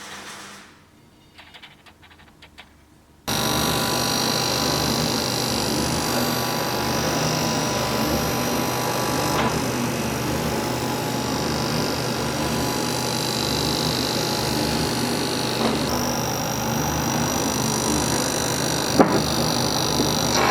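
A few faint clicks, then about three seconds in a machine starts up abruptly and runs steadily, a loud even noise with a hum in it. Near the end there is a single sharp tick.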